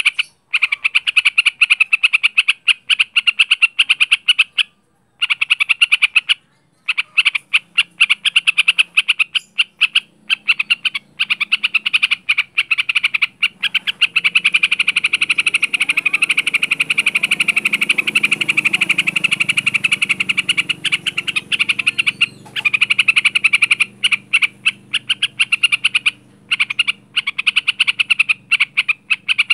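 Yellow-vented bulbul (trucukan) singing a long, rapid chattering stream of short notes, the continuous 'ngaruda' style of song, with a few short breaks.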